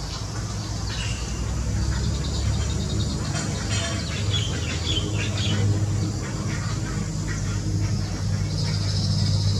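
Birds chirping: short, scattered high calls, busiest around the middle, with a brief buzzy note near the end, over a steady low hum.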